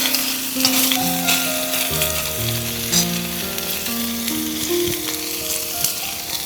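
Food sizzling as it fries, a dense hiss dotted with sharp crackles and pops, over background music of held, changing notes.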